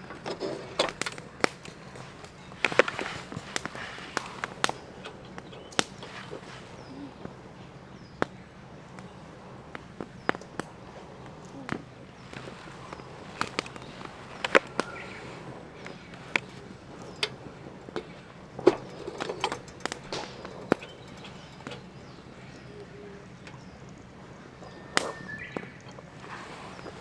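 Wood campfire crackling, with irregular sharp pops and snaps scattered through over a faint steady background.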